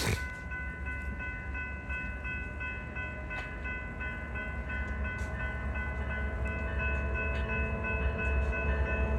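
Train running with a steady low rumble and a steady high-pitched whine of several tones. Lower tones join about six seconds in, as it gets a little louder, with scattered clicks throughout.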